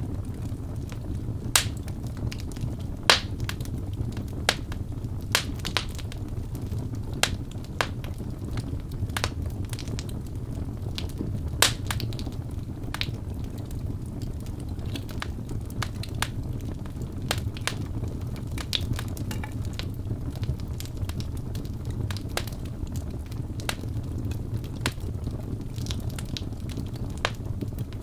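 Wood logs burning in a fireplace: irregular sharp crackles and pops over a steady low rumble of the flames, with the loudest pops in the first half.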